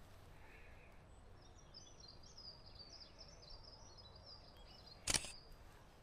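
A songbird sings a quick twittering phrase of short high notes, faint against quiet forest ambience. A single sharp click comes about five seconds in.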